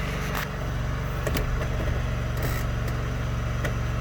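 Riding lawnmower engine running steadily, with a few sharp knocks and rattles.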